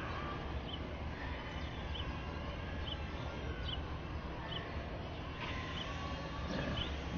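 Quiet open-air ambience with a steady low background noise, over which a small bird chirps briefly and high, about once a second.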